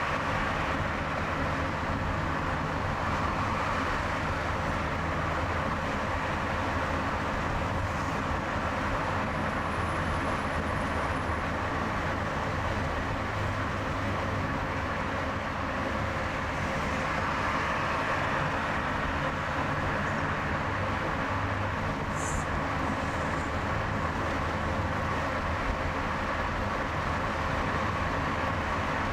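A car driving steadily on a highway: even engine hum with tyre and road noise, at constant speed.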